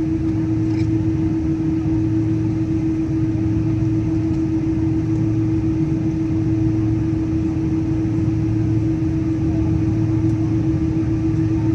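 Steady hum inside a Boeing 777-200ER cabin after landing: a constant drone with an even mid-pitched tone over a low rumble, unchanging throughout.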